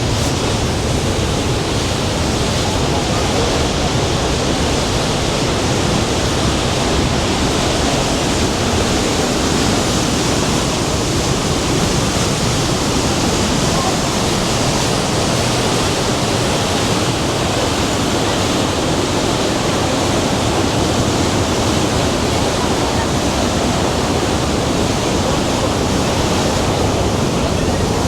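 The Rhine Falls' water rushing: a loud, steady wash of falling water that never lets up.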